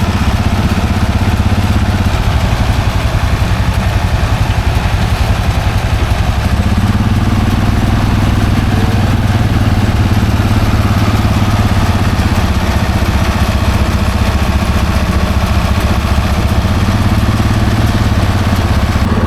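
John Deere 4430's six-cylinder diesel engine running steadily while the tractor drives a Case RBX451 round baler in hay. The engine note shifts slightly about six seconds in.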